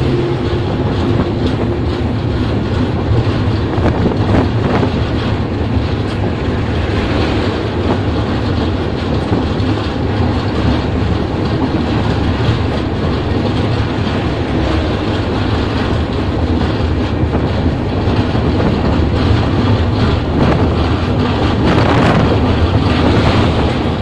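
Running noise of a moving intercity passenger train, heard from beside the coach: a steady rumble and rattle of wheels on the rails with occasional clicks. It grows a little louder near the end.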